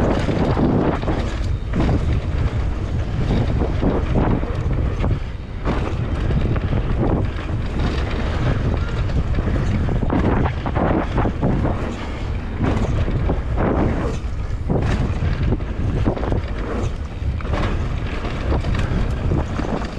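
Heavy wind buffeting the microphone in continual gusts over a steady low rumble, as from a fast-moving open boat.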